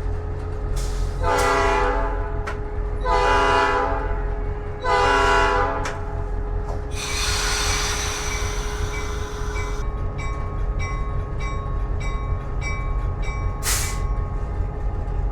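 GP38-2 diesel locomotive's air horn sounding three short blasts, the signal for backing up, over the idling engine's rumble. A burst of air hiss follows, then the locomotive bell ringing steadily about twice a second.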